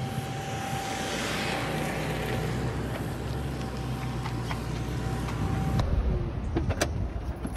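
Car engine running steadily with a constant whine as it pulls into a parking space, then cutting off abruptly about six seconds in, followed by a few sharp clicks.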